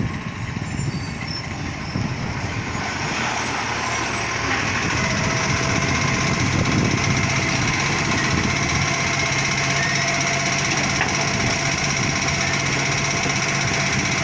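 Garbage truck's diesel engine running, growing louder over the first few seconds and then holding steady, with a steady whine over the engine note.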